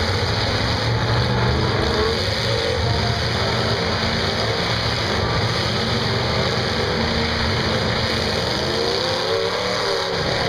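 Several demolition derby car engines running and revving together, a steady mechanical din, with rising and falling revs in the second half.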